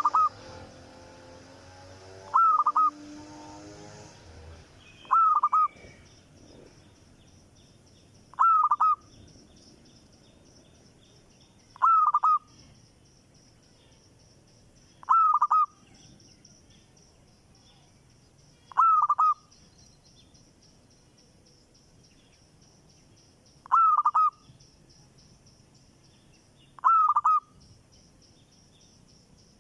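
A bird repeating one short call about every three seconds, ten times in all, each call a quick, dipping note. A faint steady high hiss runs underneath.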